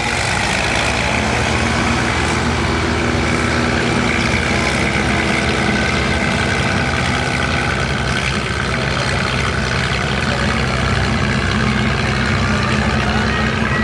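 Sand-drag race truck engines idling steadily, with no revving.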